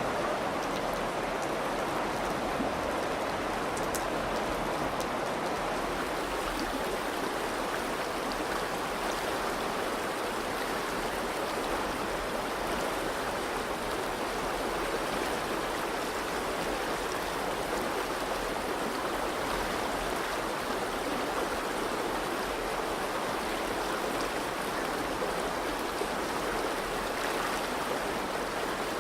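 Virgin River flowing, a steady, unbroken rush of stream water.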